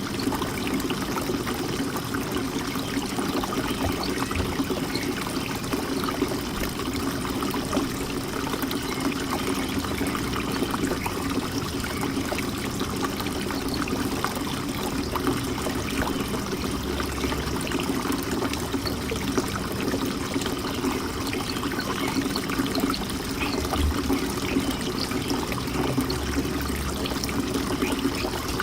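Steady trickling of running water, with many small splashes and no pause.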